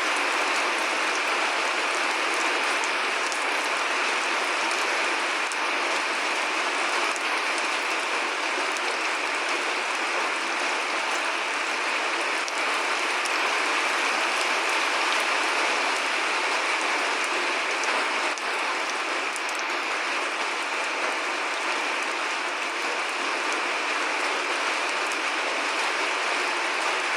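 Steady rain: a dense, even patter of drops with a few sharper single drops now and then.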